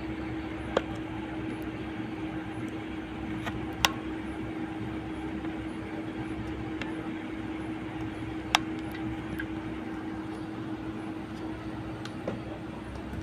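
Steady whir of a small fan or blower with a low hum. Four short, sharp clicks of small metal tools on the phone board.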